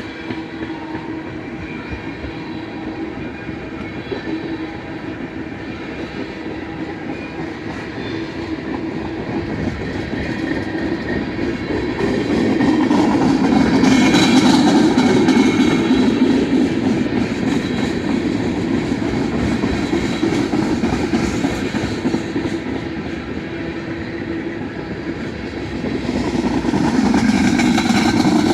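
Freight train of tank cars rolling past up close: steady wheel and rail rumble with clickety-clack over the rail joints, swelling louder about halfway through and again near the end.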